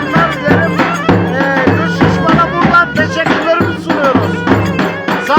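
Live Turkish folk dance music from a wedding band: a melody instrument playing ornamented phrases that bend up and down in pitch, over a steady drum beat.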